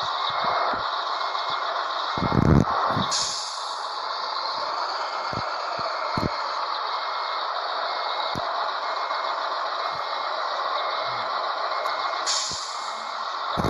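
Scania 112H truck running, with a reversing beeper sounding about twice a second and two sudden air-brake hisses, about three seconds in and again near the end.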